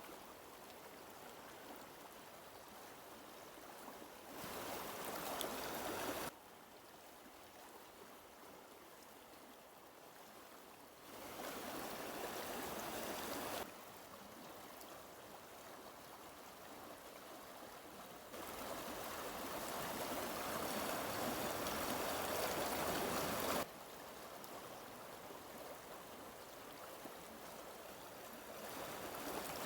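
Flowing water, a steady rush like a stream, in stretches that jump abruptly between louder and quieter several times.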